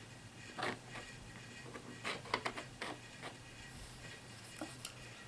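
Faint scattered plastic clicks and handling rustles of a HeroClix miniature being turned over in the hands.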